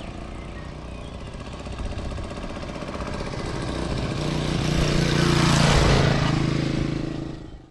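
Honda CT200 Ag bike's small single-cylinder four-stroke engine running. It grows steadily louder, is loudest about six seconds in, then eases slightly before cutting off suddenly.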